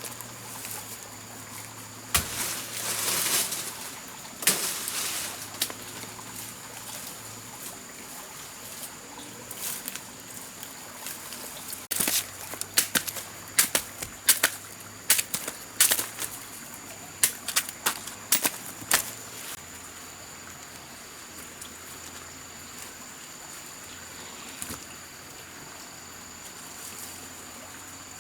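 A run of sharp knocks or clicks, about a dozen over several seconds in the middle, with a couple of rustling swells earlier, over a steady high-pitched insect drone.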